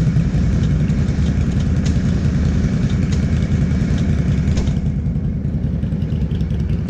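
ATV engine idling steadily, with a few light clicks over it.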